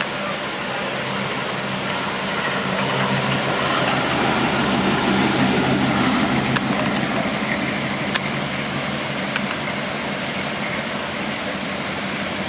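The 1969 Chevrolet C10's 350 cubic inch small-block V8 idling steadily, swelling a little louder for a few seconds midway before settling back.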